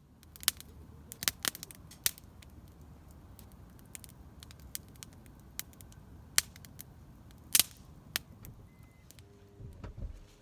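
Wood campfire crackling: sharp, irregular pops over a low steady rumble.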